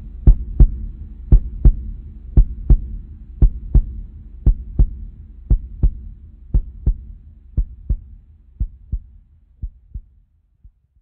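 Heartbeat sound effect: paired lub-dub thumps about once a second over a low hum, fading out steadily and stopping just before the end.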